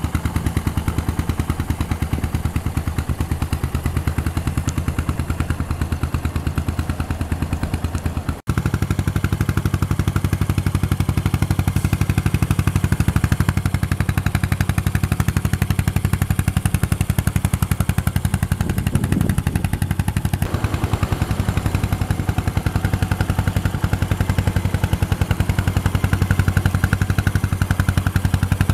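Yamaha SR400's air-cooled single-cylinder engine, fitted with an FCR carburettor, running steadily at low revs through a Peyton Place aftermarket muffler, giving a rapid, even train of exhaust beats. There is a brief break about eight seconds in, after which it is a little louder.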